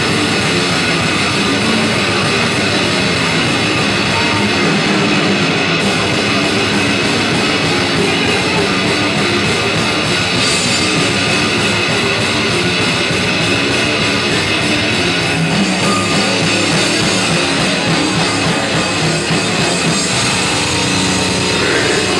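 Death metal band playing live: heavily distorted electric guitars and a drum kit in a loud, dense, unbroken wall of sound.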